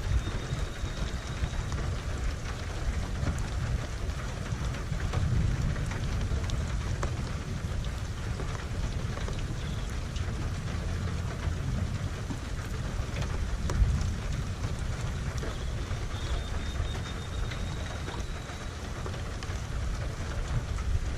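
Steady rain falling, with a low rumble of thunder underneath that swells a few times.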